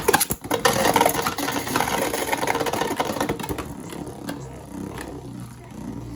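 Beyblade spinning-top launch sound effects: a couple of sharp clacks, then a loud whirring rush that fades after about three seconds, with steady music tones coming in near the end.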